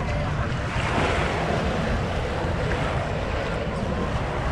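Wind buffeting the microphone over the steady wash of Lake Michigan waves on a sandy beach, a continuous rushing noise with a heavy low rumble.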